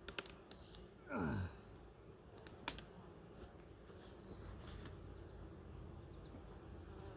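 Faint hum of honeybees around an open hive, with a few sharp clicks and knocks, one louder about two and a half seconds in, and a brief falling tone about a second in.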